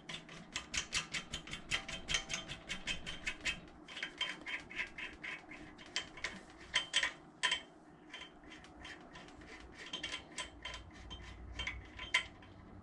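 Ratchet wrench clicking rapidly in short runs, about six clicks a second, as the rocker-arm adjuster is run down on a Predator 212 engine's valvetrain.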